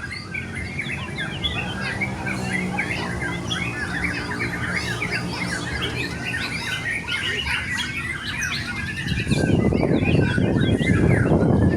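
Several white-rumped shamas (murai batu) singing at once in a dense, rapid stream of chirps and whistles. A steady low drone runs under the first half, and a loud low rushing noise sets in about nine seconds in.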